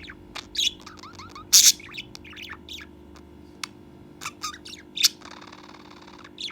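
Pet budgerigar chattering in quick, short chirps and warbles, with a loud sharp squawk about one and a half seconds in and a buzzy, rasping call lasting about a second near the end.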